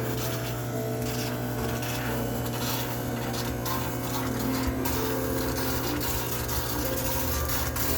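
High-pressure steam cleaner running steadily: a constant machine hum under an even hiss of steam, used for steam-sterilizing a washing machine.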